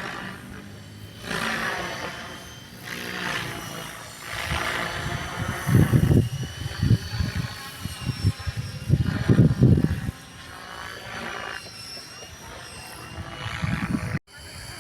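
RC model plane's motor and propeller whining overhead, the pitch rising and falling as it manoeuvres. Gusts of strong wind buffet the microphone with loud low rumbles in the middle of the stretch.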